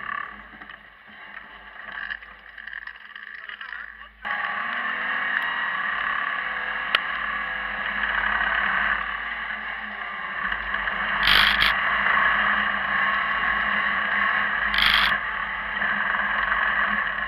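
Off-road 4x4's engine running hard under load on a steep muddy climb: a steady drone that jumps sharply louder about four seconds in. Two short bursts of noise come later.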